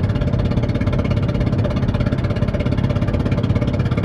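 Ford car engine running on three cylinders with a cracked Bosch spark plug, giving a rapid, even popping, the 'explosion sound' of combustion escaping through the broken plug.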